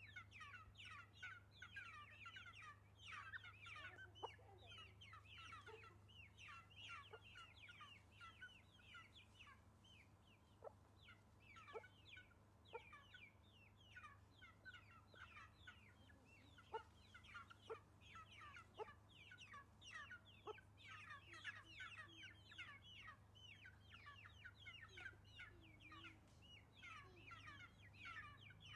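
Faint chorus of young Shamo chickens peeping: many short, falling cheeps overlapping without a break, over a steady low hum.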